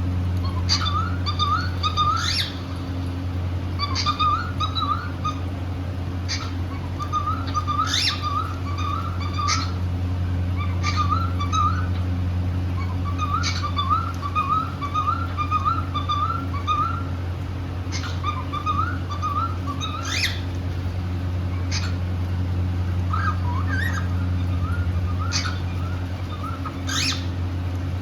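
Cockatiels chirping and whistling in short warbling phrases of quick notes, repeated every couple of seconds, with sharp higher chirps in between. A steady low hum runs underneath.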